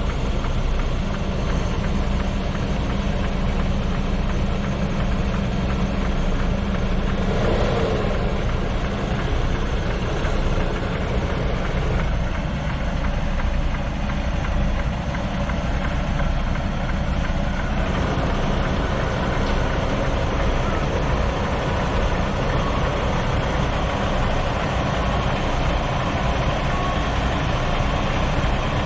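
Semi-truck diesel engine running steadily with a constant low rumble.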